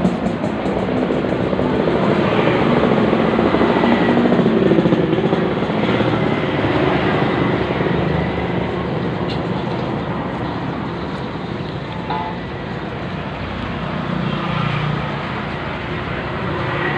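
Steady road traffic noise, with vehicles passing and the level swelling and easing slowly.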